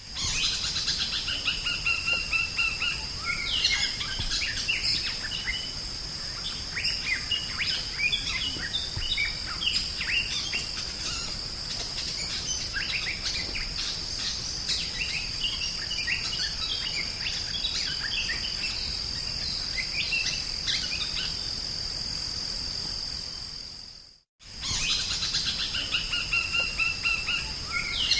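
Drongo singing vigorously: a fast, varied run of whistles, chirps and chattering notes over a steady high-pitched buzz. The sound drops out briefly about 24 seconds in, then the song starts over.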